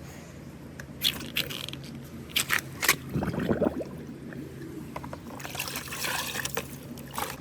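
Water trickling and splashing along a bamboo water marble run, with several sharp clacks of marbles knocking: one about a second in, three close together near the three-second mark, and one near the end.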